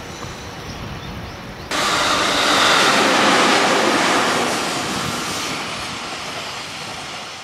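JR 211-series electric commuter train passing close: steady wheel-on-rail running noise that comes in abruptly about two seconds in, peaks, then slowly fades as the train moves away.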